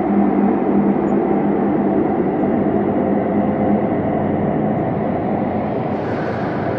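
Ambient space drone: a dense, steady low hum of layered sustained tones. A low tone fades out about halfway through, and a higher hiss swells up near the end.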